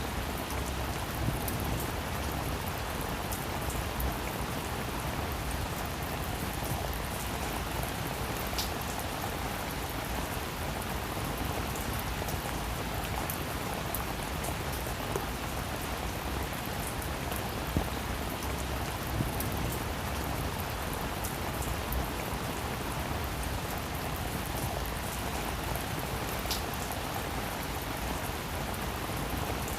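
Heavy rain falling steadily, with scattered louder individual drops ticking on a surface.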